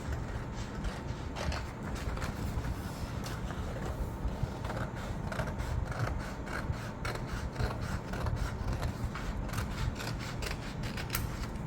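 Scissors cutting through folded paper: a run of irregular short snips with paper rustling, thicker in the second half.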